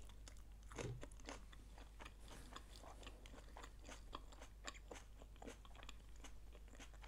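A person chewing a bite of hot chili pepper close to the microphone: faint, quick crunching and wet mouth clicks throughout.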